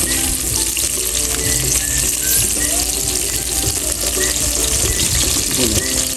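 Food frying in a pan, a steady sizzle, with background music playing over it.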